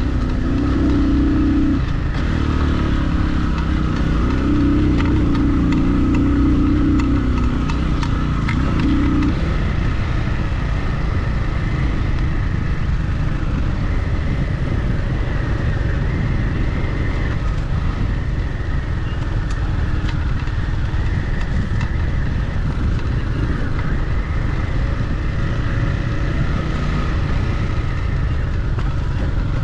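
Motorcycle engine running steadily under way on a dirt road. Its note drops about nine seconds in and holds steady after that.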